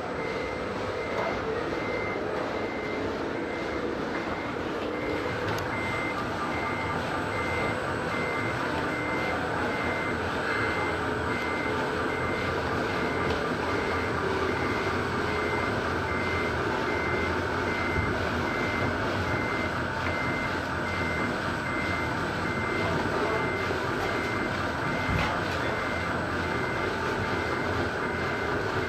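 Reversing beeper of a radio-controlled truck sounding a steady, evenly spaced run of beeps at one pitch as the truck backs up, over its running engine sound.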